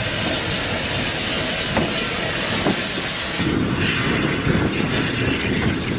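Steam locomotive hissing steadily with escaping steam; about halfway through the hiss cuts off and the rumble and rail noise of the moving train takes over.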